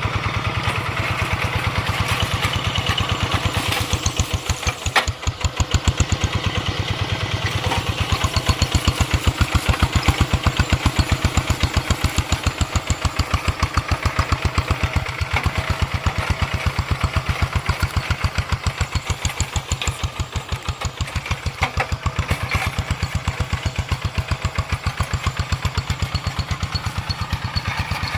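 Engine of a two-wheel paddy-field hand tractor running steadily, a rapid even train of firing pulses, with a brief dip in level about five seconds in.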